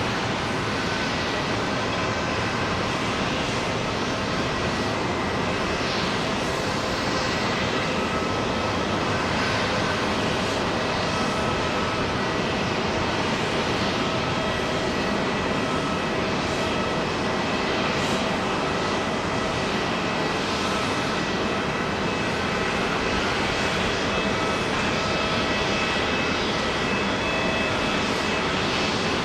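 Jet airliner engines running at a steady level, an even rushing noise with several steady whining tones held throughout.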